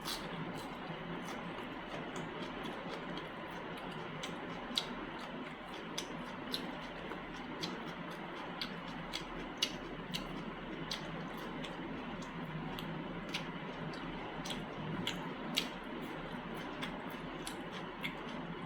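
Close-miked chewing, with sharp wet mouth clicks and smacks at irregular intervals over a steady background hiss.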